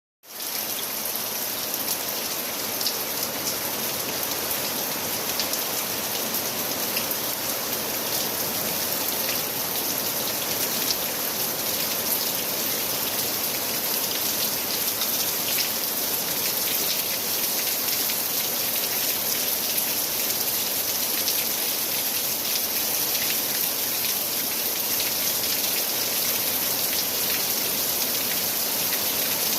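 Heavy rain falling steadily, a dense even hiss with scattered individual drop taps.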